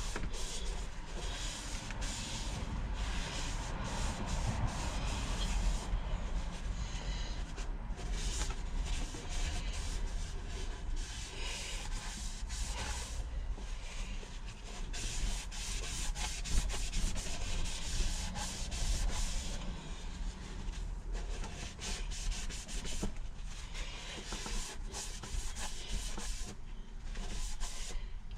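Electric drill spinning a cylinder hone inside the bore of a 12 hp Briggs & Stratton engine: a continuous abrasive scraping that rises and falls in level. The hone is putting a cross-hatch back on the cylinder wall.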